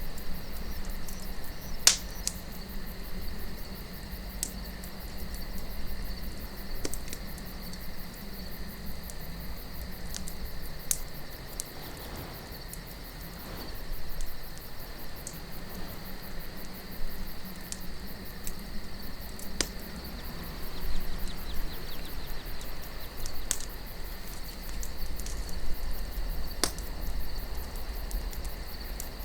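Campfire of burning wood crackling with scattered sharp pops, the loudest about two seconds in and again near the end, over a low wind rumble and a steady high chirring of crickets.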